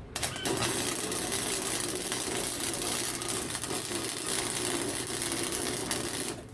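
Electric welding arc crackling steadily as a bead is run on a snapped steel mower deck-lift rod, from a small hobby welder; it starts abruptly just after the start and cuts off shortly before the end.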